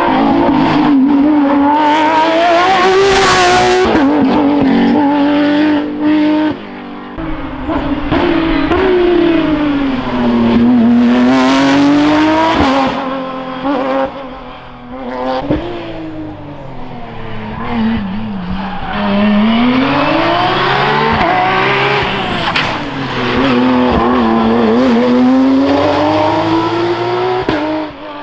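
Porsche rally car engine revving hard on a stage, its pitch climbing and dropping again and again through gear changes and braking for corners, with brief lifts off the throttle. Tyre squeal mixes in.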